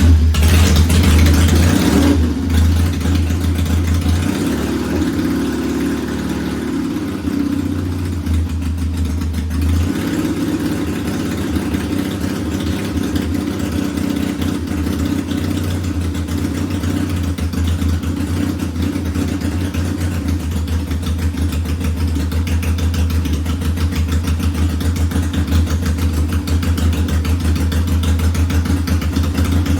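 1969 Triumph T100's 500 cc parallel-twin engine running and warming up, uneven for the first ten seconds or so and then settling into a steady idle.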